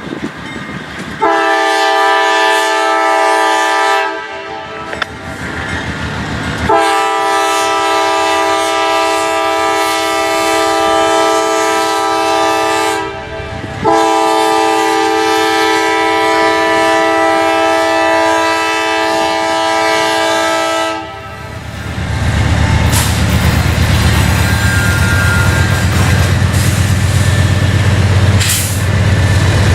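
Multi-chime air horn of a CSX GE ET44AH locomotive leading an empty coal train, sounding three blasts: a shorter one, then two long ones. About 22 seconds in, the horn stops and a loud, low rumble of the locomotive and train passing takes over.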